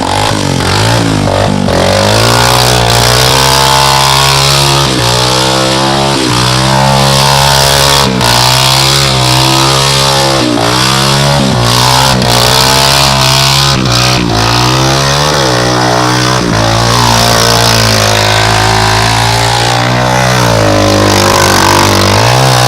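Honda FourTrax ATV's single-cylinder four-stroke engine under throttle, revving up and easing off over and over, its pitch climbing and dropping every two to three seconds.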